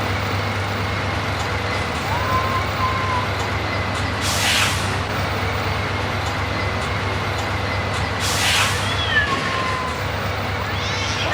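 Truck traffic: a steady engine rumble, with two short air-brake hisses about four and eight seconds in, and a few faint squealing tones.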